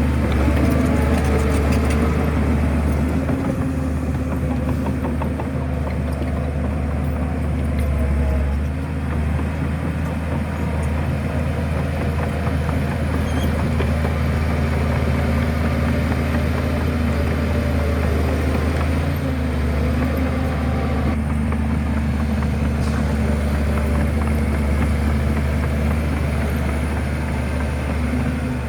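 Shantui bulldozer's diesel engine running steadily with a deep drone, with faint metallic rattles near the start.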